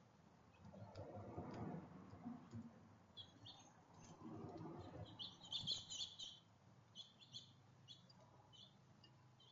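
Small birds at a feeder giving short, high chirps in clusters through the middle and latter part, with two spells of low rustling, likely feeder or wing movement, in the first half.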